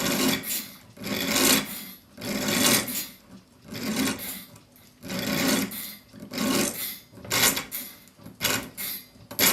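A very fine flat file is drawn across the end of a steel clock mainspring clamped in a vise, taking down the high points. It goes in slow, even strokes about one a second, then a few shorter, quicker strokes near the end.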